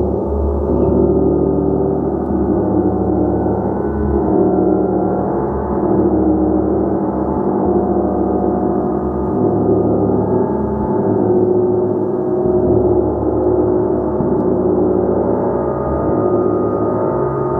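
A large gong played continuously: a dense, sustained wash of many overlapping ringing tones with no break, the whole sound gently swelling and ebbing as it is kept going.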